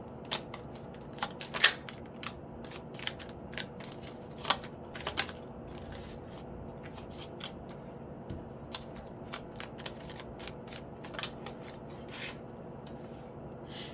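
Tarot cards being shuffled by hand: a run of irregular light clicks and snaps, the sharpest one about two seconds in.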